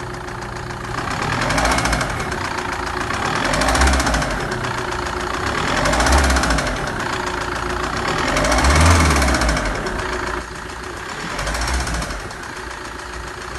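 Hyundai Terracan 2.9 diesel engine running with a heavy, rapid knock, swelling louder about every two seconds as it is revved. The knock sounds like piston slap but comes from loose dry cylinder liners vibrating in the block.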